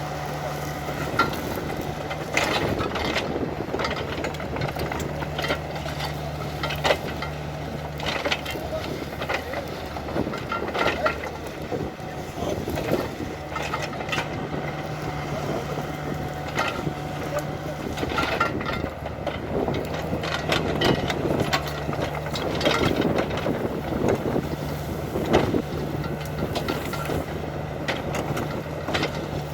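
Excavator diesel engine running under load while a forest rake attachment drags through brush and roots, with repeated cracks and snaps of wood throughout. The engine note drops away briefly twice and comes back.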